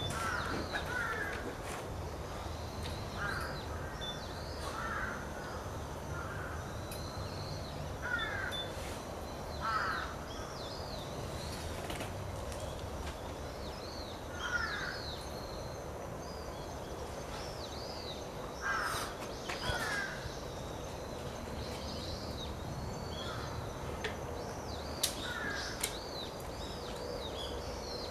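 Crows cawing, a call every second or two, with thinner high-pitched bird calls between them over a steady low rumble.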